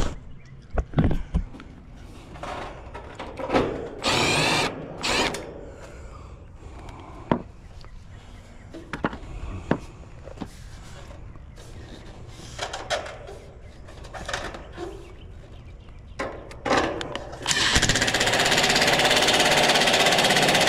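A cordless power drill-driver runs in short bursts about four and five seconds in, spinning up with a rising whine, amid scattered clinks and knocks of tools and parts being handled. Near the end it makes a longer steady run of about three seconds that cuts off suddenly.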